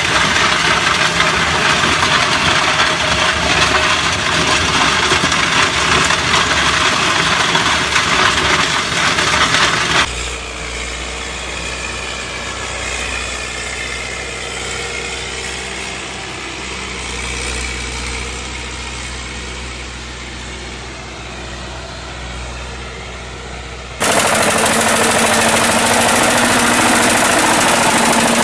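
Diesel walking-tractor (power tiller) engines running steadily, across three clips. The middle clip is quieter, with a steady low engine hum, and louder engine noise returns near the end.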